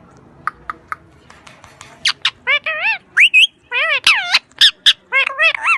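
Pet parrot squawking: a few short chirps in the first second, then a string of loud, wavering squawks from about two seconds in.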